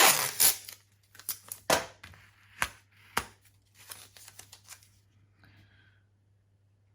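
Masking tape pulled off the roll with a rip at the start, followed by a string of short sharp crackles and taps as the tape and paper are handled. The noises thin out and stop about five seconds in.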